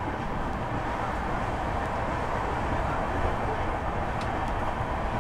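Steady running noise of a passenger train rolling along the track, heard from the open side of a sleeper-class coach.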